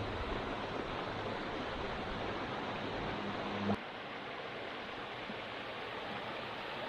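Steady rushing noise of water. About four seconds in the sound cuts to a slightly quieter rush as a low hum drops out.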